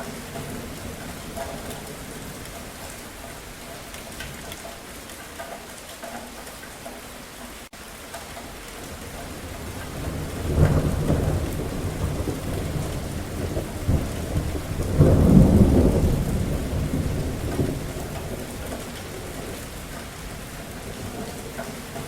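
Steady rain with thunder. A roll of thunder comes in about halfway through, and a louder rumble peaks a few seconds later before dying back into the rain.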